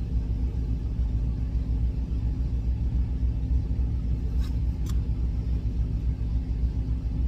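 Steady low idling rumble of a parked semi truck's engine, with two short clicks a little past halfway.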